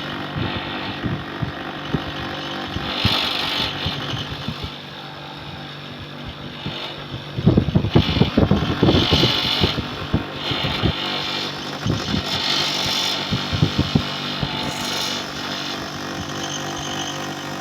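Window air conditioner running: a steady hum from the compressor and fan with irregular knocking and rattling, which the trainer puts down to its old compressor.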